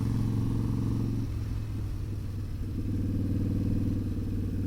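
Harley-Davidson motorcycle's V-twin engine running steadily while being ridden, its engine note changing about a second in.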